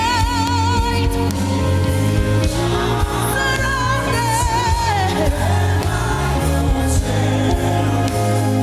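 Gospel worship music: a lead singer holds long notes with a wide vibrato, one of them sliding down about five seconds in, over steady sustained instrumental chords and bass, with choir voices.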